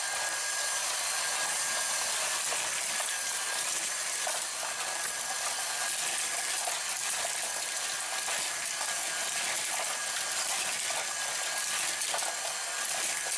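Hot Wheels Power Tower's battery-powered track motor running steadily, with a faint steady whine and a constant fine clatter of its plastic mechanism and die-cast cars moving along the track.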